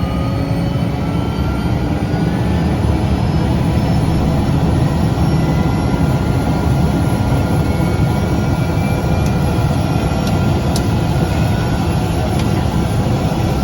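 Cessna 208B Grand Caravan EX's single PT6A turboprop engine and propeller running at high power, heard from inside the cabin as a loud, steady drone. Its whine rises slightly over the first few seconds, then holds level.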